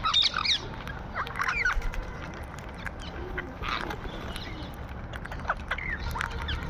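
Parrots calling: clusters of short, sharp calls that bend up and down in pitch, coming every second or two, with faint scattered clicks over a low steady rumble.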